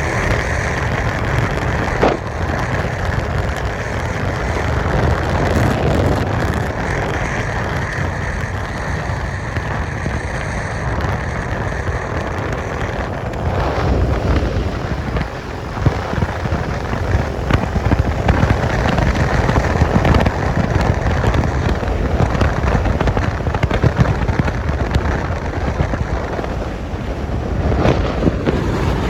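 Wind buffeting the microphone on a moving Suzuki Skydrive 125 scooter, a loud steady rumble with crackling that grows rougher about halfway through, over the hum of the engine.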